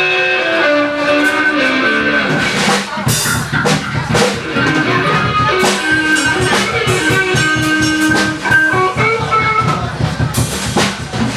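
A band playing live: a melodic guitar line carries the tune, and drums with cymbal crashes come in about three seconds in and keep a beat.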